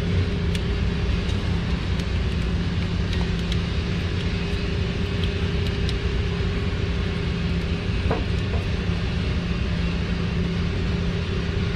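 Steady mechanical drone from a running engine or motor, holding one even pitch with a low rumble under it, with a few faint clicks of parts being handled.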